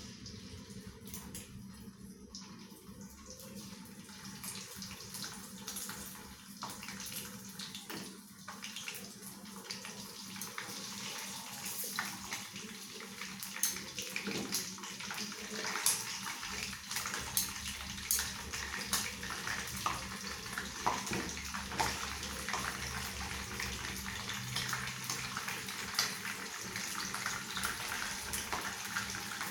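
Pieces of mackerel tuna deep-frying in hot oil: a steady sizzle with sharp crackling pops that grow louder and more frequent as the fish fries.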